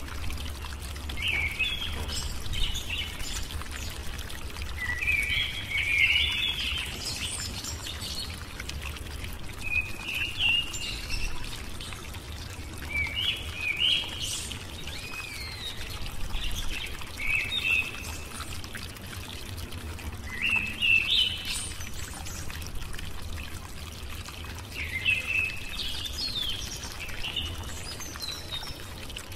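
Birds singing in short chirping phrases every few seconds, over a steady low hum and a soft, even, water-like hiss.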